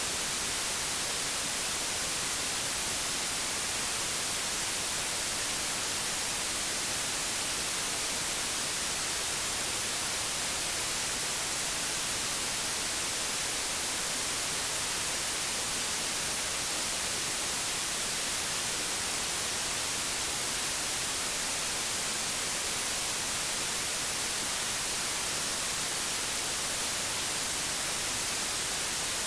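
Old television static: a steady, even hiss, strongest in the treble, with no breaks or changes.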